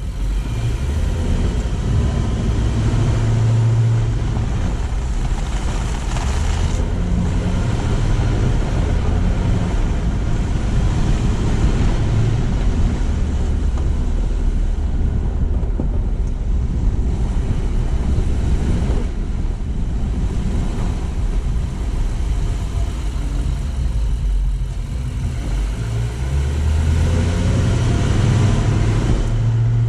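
A car driving, giving a steady low rumble of engine and tyre noise.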